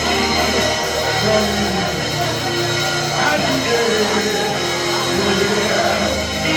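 Live gospel worship band music playing steadily, with sustained chords.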